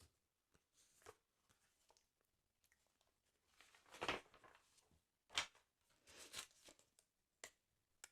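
Quiet handling of a football sticker album's paper pages: scattered soft rustles and crinkles. The loudest is a longer brush a little after four seconds, with a sharp one at about five and a half seconds and a cluster soon after.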